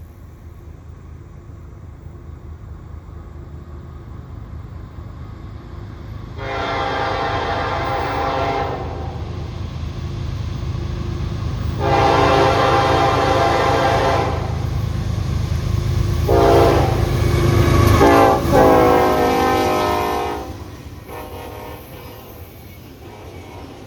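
Norfolk Southern freight train's lead diesel locomotive approaching, its engine rumble building, sounding its air horn in the grade-crossing pattern: two long blasts, a short one and a long one. The last blast dips in pitch as the locomotive passes, and the engine sound gives way to the cars rolling by.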